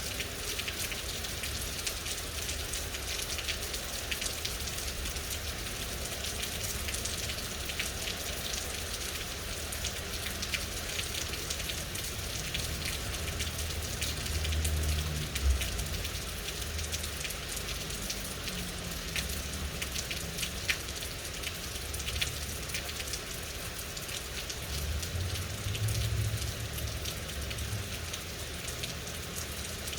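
Steady rain falling and pattering on a surface, a dense hiss of many small drop ticks. Twice, about halfway through and again near the end, a low rumble swells up under it and fades.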